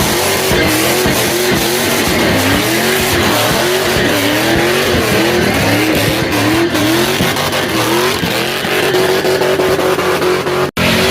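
Car tires squealing loudly over engine noise during a sliding stunt, the squeal wavering up and down in pitch in a regular cycle about every two-thirds of a second and holding steady near the end. A sudden brief dropout just before the end.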